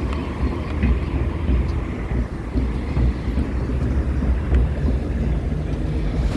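Steady low rumble and buffeting of wind and road noise on the microphone of a moving bicycle, with a few faint clicks.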